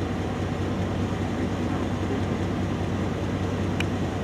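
Steady low drone of a vehicle engine running, with a brief faint click near the end.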